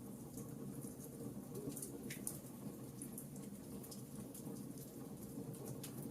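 Wood fire crackling in a fireplace: a steady low rumble of flames with frequent small, sharp pops and snaps of burning logs, one sharper crack a little after two seconds in.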